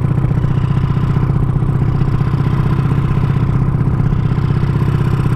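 Honda Supra motorcycle's single-cylinder four-stroke engine, bored out to 200cc, running at steady revs through an aftermarket CJDW exhaust. This is the exhaust's pure sound, with no talking over it.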